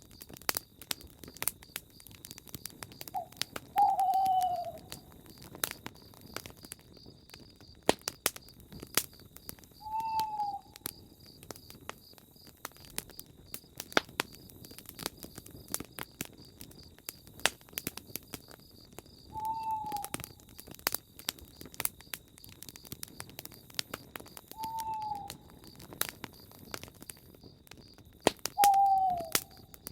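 Campfire crackling with frequent sharp pops, while an owl hoots single short falling notes about every five seconds, as loud as the loudest pops. Crickets chirp steadily underneath.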